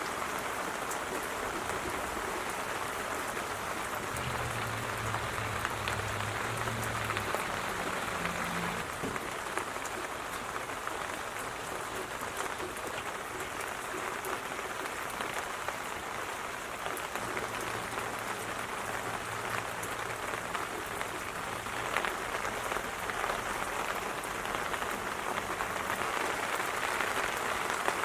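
Steady rain falling on standing floodwater, an even hiss of drops.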